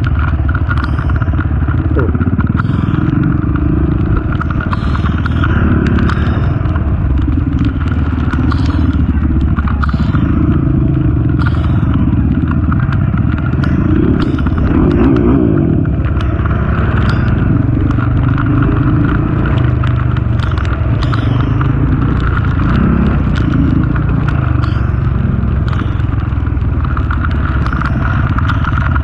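Honda TRX450 ATV's single-cylinder four-stroke engine running steadily while riding a trail, with frequent short clicks and clatter over the top.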